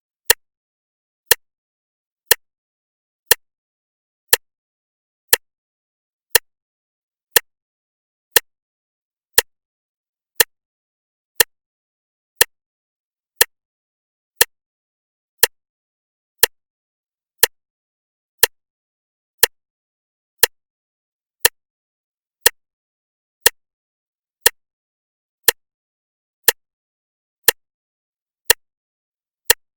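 Clock ticking steadily, one sharp click about every second with silence in between.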